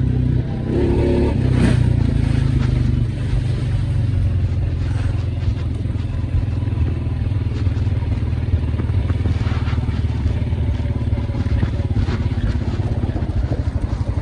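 Honda Rancher 420 ATV's single-cylinder engine running under way, a fast, steady low rumble. It is briefly louder, under throttle, about a second in.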